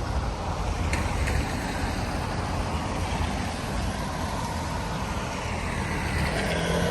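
Street noise in the rain: a steady hiss of rain and tyres on a wet road over a low traffic rumble, with a vehicle's engine hum growing louder near the end.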